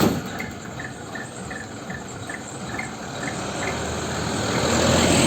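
Crickets chirping in a steady pulse, about three chirps a second. Over the last two seconds a rushing vehicle noise swells louder over them, as a vehicle approaches.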